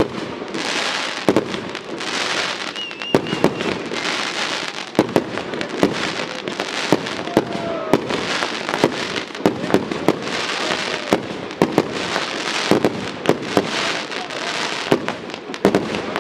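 Fireworks display firing nonstop: sharp bangs of bursting shells come several times a second over a steady crackling hiss.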